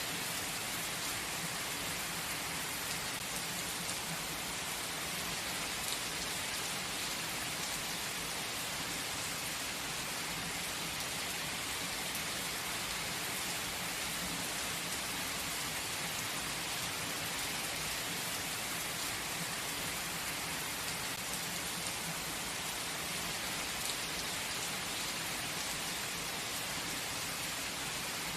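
Steady, gentle rain falling, an even hiss with many small raindrop ticks.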